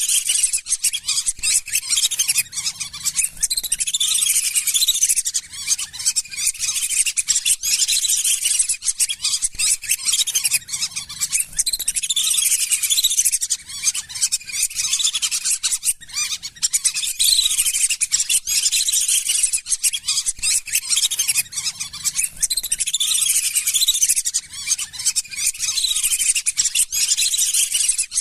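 A flock of lesser whistling ducks calling: many overlapping, high whistled calls repeating without a break.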